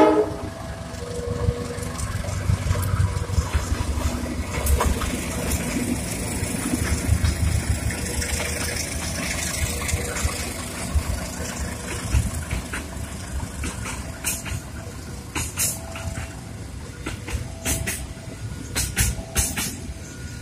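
A train running past on the track: a steady low rumble of wheels on rail, with sharp repeated clicks of wheels over rail joints growing more frequent in the second half.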